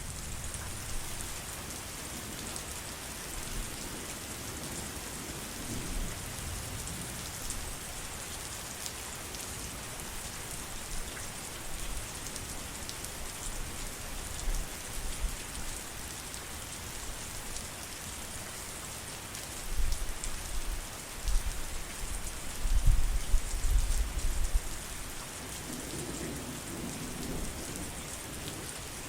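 Steady heavy rain falling as a dense hiss, with a low rumble of thunder about two-thirds of the way through.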